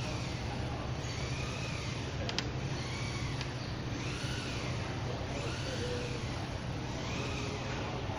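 Steady running machinery: a constant low hum under broad noise, with a faint rising-and-falling tone recurring about once a second and two short clicks near the middle.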